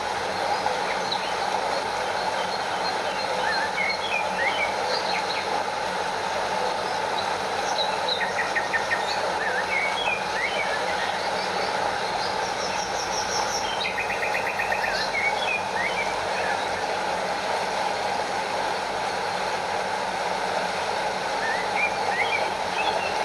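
Steady rush of a flowing stream and small waterfall, with birds chirping over it: many short chirps and a couple of rapid trills.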